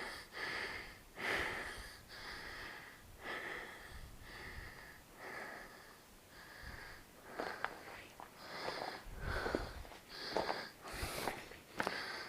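A person breathing heavily, out of breath from exertion, with about one breath a second close to the microphone. Several sharp clicks and low knocks fall in the second half.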